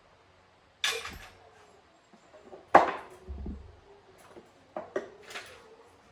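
Metal tools and parts knocking and clinking: a sharp knock about a second in, the loudest knock near the middle followed by a low thud, then a few lighter clinks, some leaving a short ringing.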